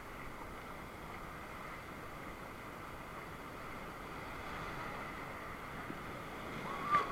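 Steady rushing noise of river water flowing around a raft, even and unbroken.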